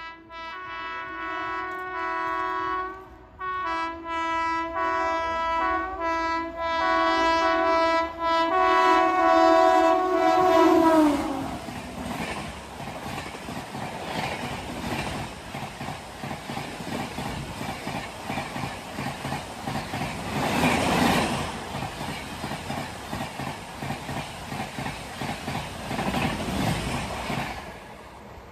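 Express train horn sounded in several short blasts and then one long blast whose pitch drops as the locomotive passes, followed by the coaches rushing and clattering past at high speed, which fades near the end.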